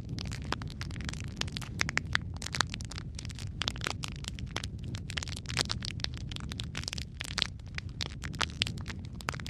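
Wood fire burning in a fireplace: a steady low rumble of flames with many sharp crackles and pops at irregular intervals.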